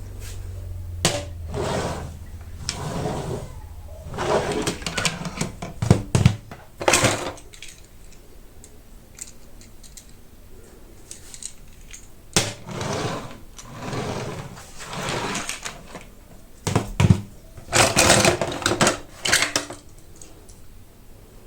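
Hot Wheels blister packaging being handled and opened: irregular crackling rustles of plastic and card, with sharp clicks between them.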